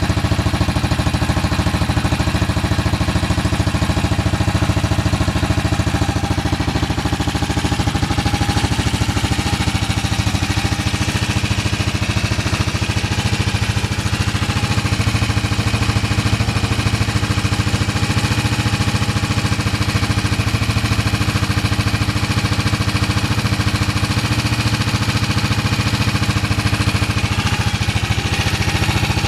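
1971 BSA B50SS's 500 cc single-cylinder four-stroke engine running steadily with an even, rapid beat of firing pulses. The engine is freshly overhauled and has completed its 500 km run-in.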